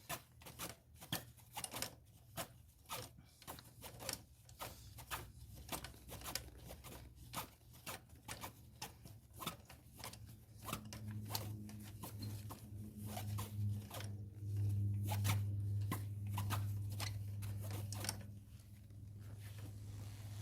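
Ratchet wrench clicking in short irregular runs, a few clicks a second, as spark plugs are worked in the engine. A low steady hum joins about halfway and stops near the end.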